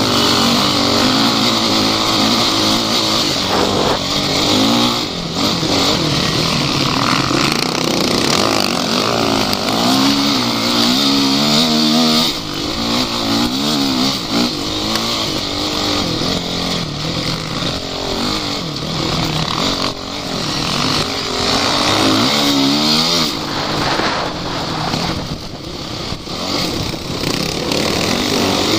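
Off-road vehicle engine running loudly and revving up and down repeatedly under load, with the pitch climbing in several rising sweeps.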